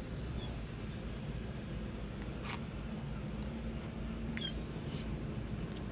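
A small bird's short, high, gliding chirps, heard twice, over a steady low outdoor rumble, with a couple of faint clicks.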